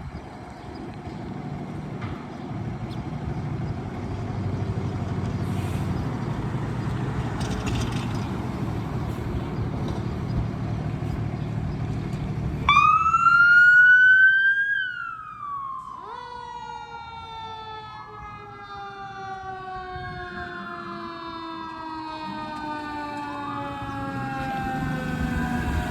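Traffic and engine noise from a passing vehicle, then about halfway through an emergency vehicle siren starts suddenly and loudly. It rises and then slowly winds down, while a wailing siren rises and falls over it several times.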